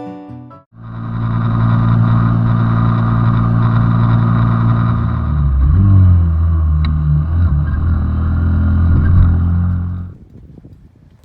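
Small single-cylinder Honda Benly 90 motorcycle engine running under way. Its pitch drops about halfway through, and the sound cuts off abruptly about ten seconds in.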